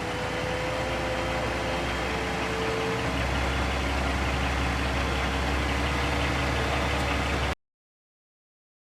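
Scania R480 truck's inline six-cylinder diesel engine running steadily at idle, a low hum that gets a little fuller about three seconds in. The sound cuts off abruptly near the end.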